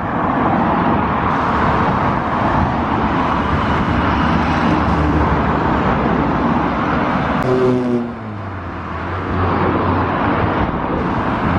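Motor vehicles driving past close by with a loud rush of engine and road noise. About seven to eight seconds in, one goes past with its engine note falling in pitch. After that a lower, steady engine hum is left, and the noise builds again near the end.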